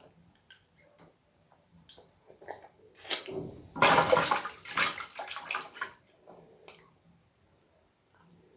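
Water splashing and sloshing for about two and a half seconds, starting about three seconds in, with scattered small clicks and taps before and after.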